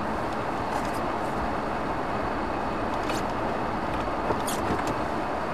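Car running and rolling over an icy, snowy parking lot, a steady engine and tyre noise heard from inside the cabin, with a few faint clicks. The car has just got traction after spinning its wheels on the ice.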